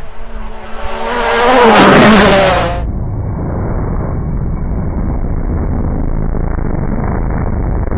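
Rally car engine at full throttle, growing loud and passing, loudest about two seconds in. Just before three seconds the sound cuts abruptly to a steady, muffled low rumble.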